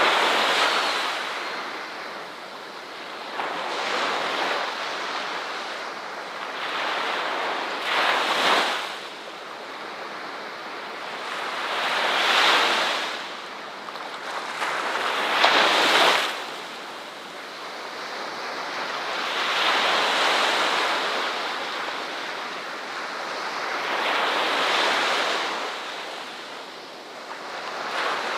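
Ocean waves breaking and washing in, one swell of surf about every four seconds, with the loudest breaks about eight seconds and sixteen seconds in.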